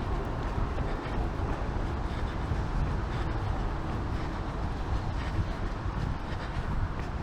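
Outdoor street noise while running on a rainy day: wind rumbling on the microphone, with the runner's footfalls faintly and regularly at about three a second.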